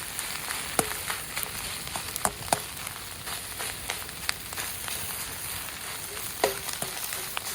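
Fried rice sizzling in a pan over a campfire, a steady hiss broken by about a dozen irregular sharp metal clinks.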